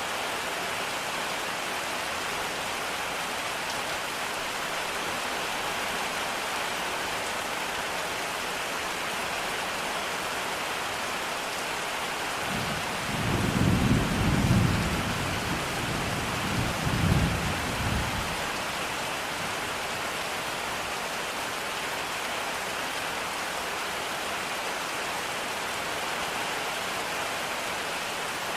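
Steady rain hiss with a deep roll of thunder about halfway through that swells twice and dies away after about six seconds.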